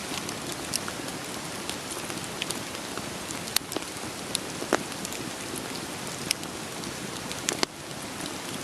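Steady rain hiss with the sharp, scattered pops of crackling burning firewood; the loudest pops come about three and a half, four and a half and seven and a half seconds in.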